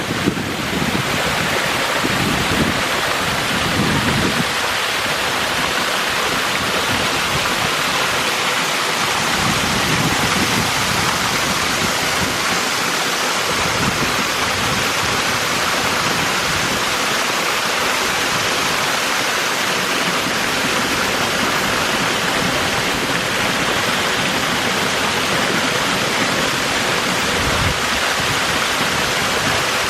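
Waterfall pouring steadily, an even rushing of falling water.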